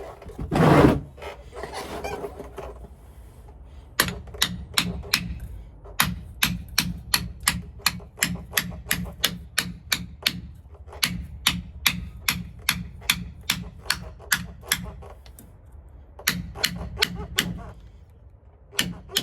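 Hammer tapping a new pinion seal into a differential housing: runs of sharp, even taps, about three a second, with short pauses between runs. One heavy thump about a second in.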